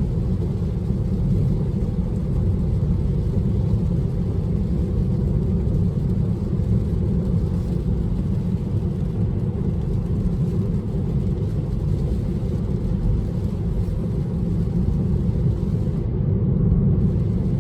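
Steady low road and tyre rumble inside a Tesla's cabin as the electric car drives along at speed.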